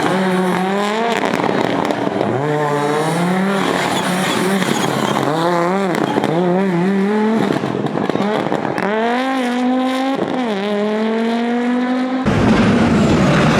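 Audi Quattro S1 rally car's turbocharged five-cylinder engine accelerating hard through the gears, the pitch climbing and dropping back at each shift, several times over. About twelve seconds in, the sound changes abruptly to a rougher, deeper car noise.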